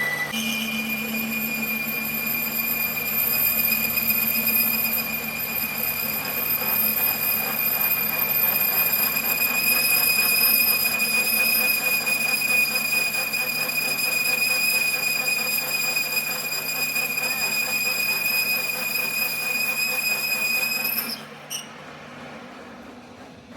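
Metal being machined, with a steady high-pitched squeal that holds one pitch over a running mechanical noise. It stops abruptly about 21 seconds in.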